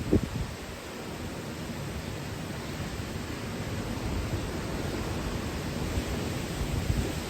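Typhoon wind, a steady rushing noise with a low gusting rumble that rises and falls. A short low thump just after the start is the loudest moment.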